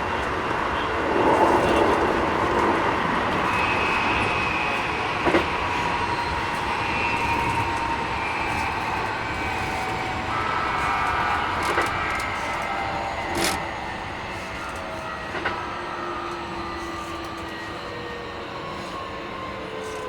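Keikyu 1000 series electric train heard from on board: the whine of its Mitsubishi IGBT inverter and traction motors over the running rumble, with several tones falling in pitch through the second half as the train slows. A few sharp clicks from the wheels and rails. The recordist finds this unit a little noisier than other sets.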